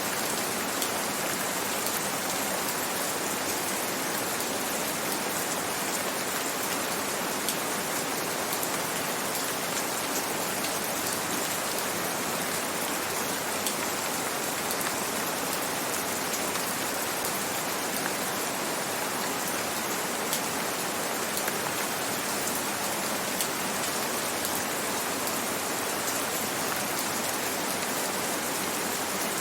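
Steady gentle rain: an even hiss of falling rain with scattered droplet ticks.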